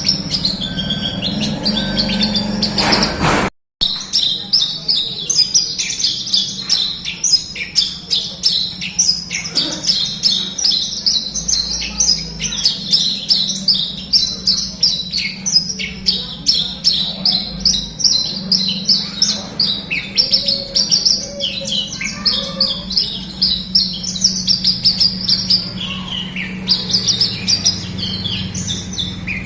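Javan bush lark singing a long, fast, unbroken run of high chirping notes over a steady low hum. The sound cuts out for a split second about three and a half seconds in.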